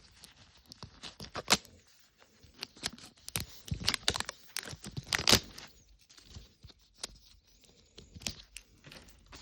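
Plastic wrapping being torn and crinkled off a Mini Brands capsule ball: irregular sharp crackling rips. The loudest come about one and a half seconds in and again around four to five seconds in.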